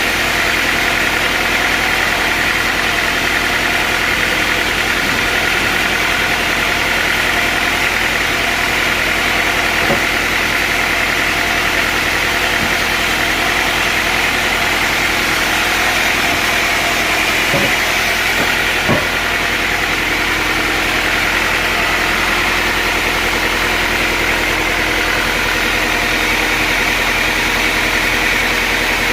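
Sawmill machinery running steadily with a constant hum and whine, with a few faint knocks.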